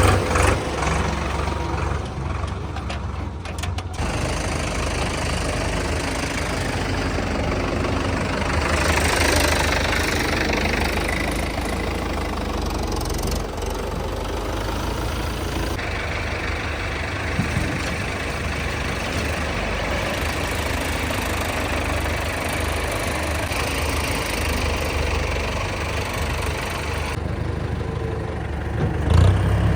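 Diesel tractor engine running steadily with a low, pulsing drone. The sound changes abruptly a few times, as from cuts between shots.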